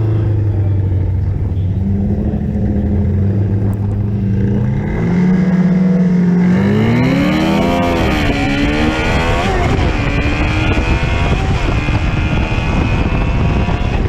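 Drag-racing motorcycle engine idling, then brought up to a steady higher rpm on the line about two seconds in. It launches about five seconds in, its pitch climbing and dropping back through several gear shifts, then runs on at full throttle with loud wind noise.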